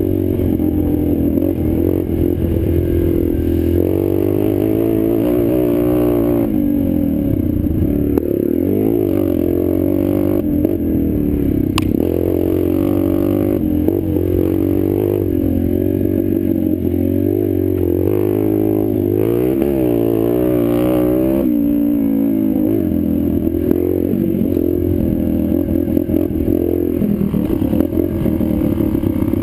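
Small four-stroke pit bike engine being ridden, revving up and easing off over and over as the throttle opens and closes. There is one sharp click about twelve seconds in.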